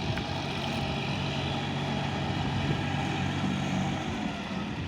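John Deere 5050D tractor's three-cylinder diesel engine running steadily under power with a constant hum, easing off slightly near the end.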